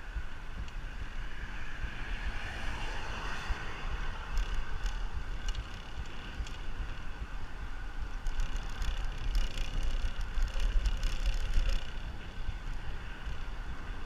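Wind buffeting the microphone during a ride, with steady road noise underneath. Through the middle stretch a run of light clicks and rattles joins in, and the wind is loudest shortly before the end.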